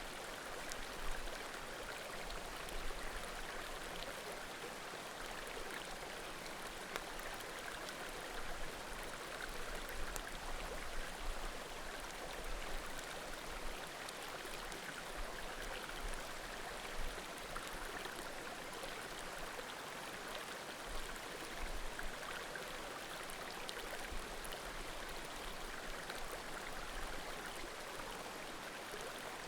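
Small mountain creek babbling steadily, with occasional faint pops and crackles from burning firewood.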